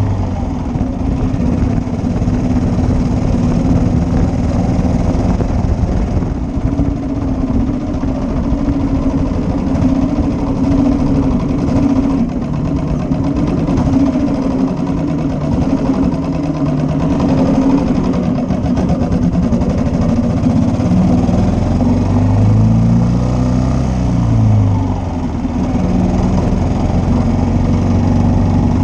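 1941 Matchless G3L's 350 cc single-cylinder four-stroke engine running while the bike is ridden, its note rising and falling with the throttle. There is a short lull in the engine note late on.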